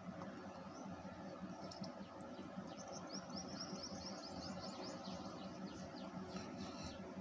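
A small bird singing a fast trill of short, high chirps, about two seconds long near the middle, over steady low background noise.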